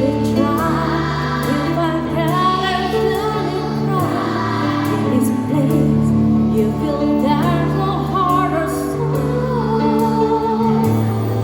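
Children's choir singing a song over instrumental accompaniment, with held low chords under the moving melody.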